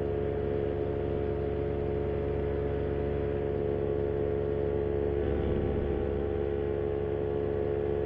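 Moster 185 single-cylinder two-stroke paramotor engine running at a steady cruise throttle in flight, an even, unchanging drone.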